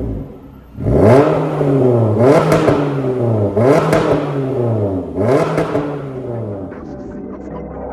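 Toyota Corolla Cross 1.8-litre four-cylinder engine through an MS-R valved cat-back exhaust, revved in four quick blips that each climb sharply and fall back, then settling to idle near the end.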